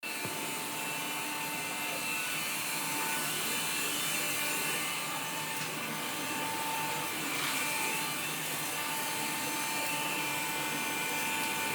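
Vacuum cleaner running steadily, a constant whine over a high hiss.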